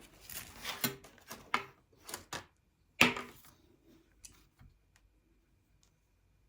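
Paint containers being handled and knocked on a work surface: a run of rustling, clattering knocks, one sharper knock about three seconds in, then a few light clicks.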